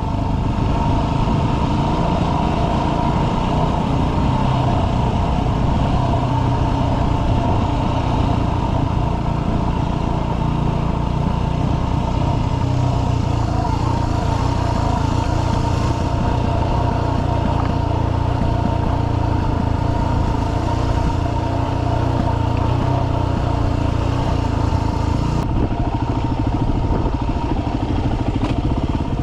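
Dirt bike engine running steadily in first gear on a steep downhill, engine braking with the throttle closed to hold the bike's speed back instead of using the brakes.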